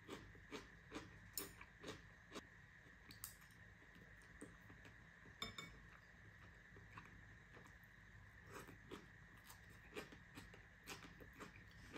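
Quiet crunchy chewing of stir-fried bean sprouts, with faint irregular clicks of chopsticks picking from a plate.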